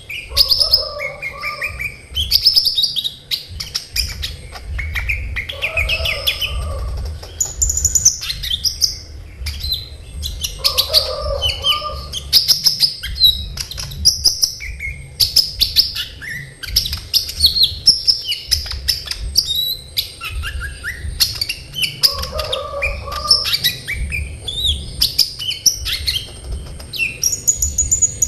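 A kolibri ninja sunbird sings in dense, rapid, high-pitched chirps and trills with hardly a break. A lower, separate call comes back every few seconds.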